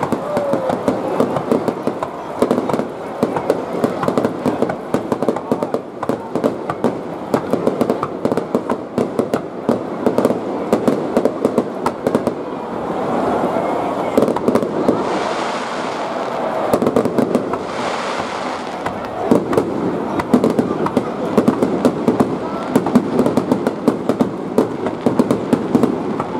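Aerial firework shells bursting in quick succession: a dense, unbroken run of bangs and crackles, with two spells of sharper hissing crackle about 15 and 18 seconds in.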